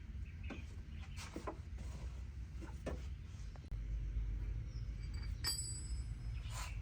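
A handful of light metallic clinks and taps from tools and parts being handled during repair work, one ringing briefly about five and a half seconds in, over a low steady rumble.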